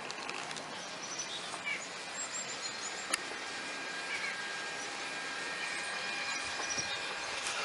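Leaf blowers running steadily, blowing air into a 4-foot AquaDam: an even noise with a faint steady whine. Small birds chirp a few times, and there is one sharp click about three seconds in.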